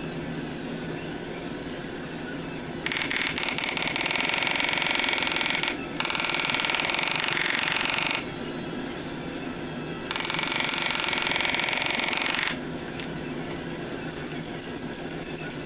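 A power tool in a body shop runs in three bursts of two to three seconds each, about three, six and ten seconds in, with a fast buzzing rattle over a steady background hum.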